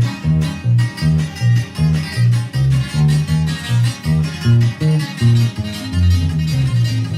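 A norteño band playing live in guitar style, with strummed guitar chords over a bass line of alternating low notes in a steady two-beat corrido rhythm. No singing is heard in this instrumental passage between verses.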